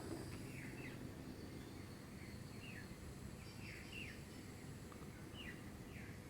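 Faint bird chirps, short downward-sliding notes repeating every second or so, over a low steady background noise.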